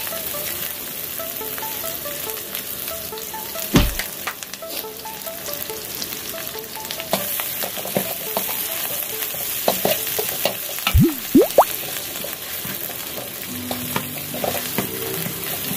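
Curry paste of shallots, garlic, dried chillies and turmeric sizzling as it fries in an aluminium wok. A metal spatula scrapes and knocks against the pan while stirring, with one sharp knock about four seconds in and a run of scrapes later on.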